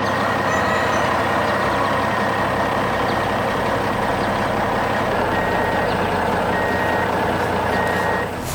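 Heavy construction vehicle engine running steadily with a reversing alarm beeping, three even beeps in the second half, as the vehicle backs up. The sound drops away just before the end.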